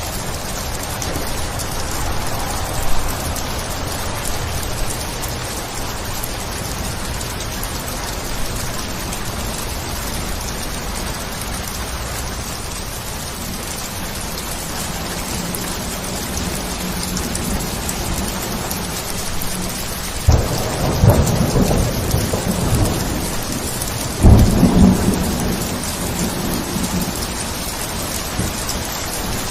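Steady rain falling, with two sudden claps of thunder about four seconds apart near the end, each rumbling away over a couple of seconds.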